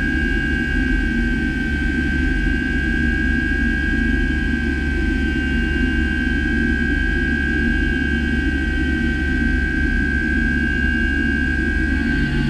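DMG MORI M1 CNC milling machine running steadily during the machining of a steel part, with a constant high whine over a steady low rumble.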